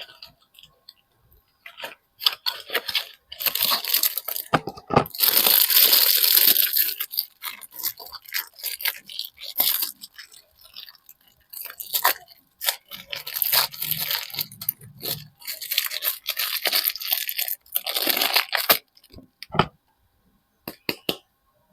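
Soap wrapping being torn open and unwrapped: crinkling and tearing of the packaging in a long burst of bouts, loudest about five seconds in, with sharp clicks and taps at the start and end.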